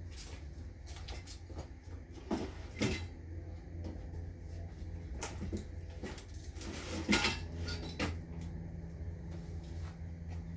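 Irregular knocks, clunks and scrapes from objects being handled, the loudest about two and a half seconds in and about seven seconds in, over a steady low hum.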